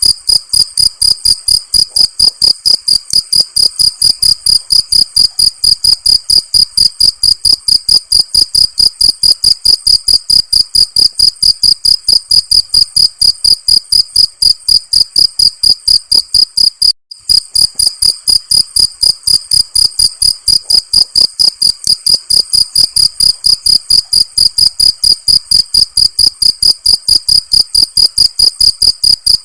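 Cricket chirping in a fast, even rhythm of about four high-pitched chirps a second, with a brief break about 17 seconds in.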